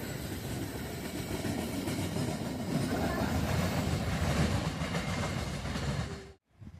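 A train passing close by, its wheels running on the rails as a steady loud rumble that cuts off abruptly about six seconds in.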